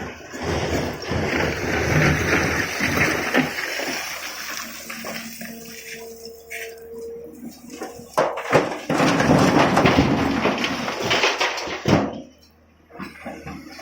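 Tata Hitachi 200 excavator loading stone into a truck: a dense rushing clatter of rock, in two long loud spells, with the machine's engine under it. The noise drops out briefly near the end.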